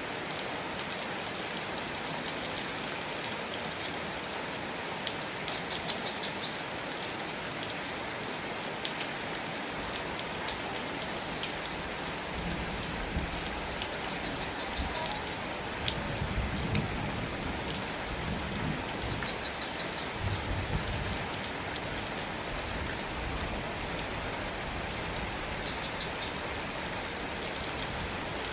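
Steady rain falling and pattering on surfaces. From about twelve to twenty-one seconds in, a low rumble rises under the rain and then fades.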